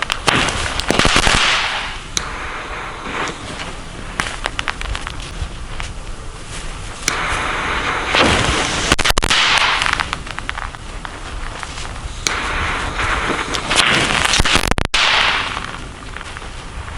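Category 1 youth fireworks (Nico 'Fireballs') going off one after another: three hissing surges, each laced with sharp cracks and crackling.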